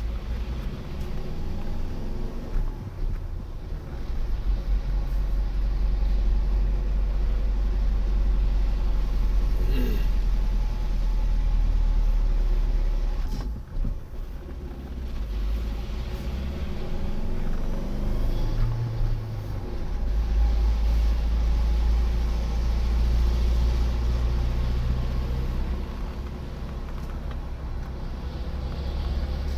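A motor vehicle driving: a steady low engine and road rumble, which dips briefly about 13 seconds in.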